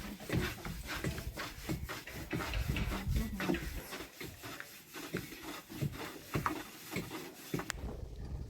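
Hand tools scraping and knocking in quick, irregular strokes.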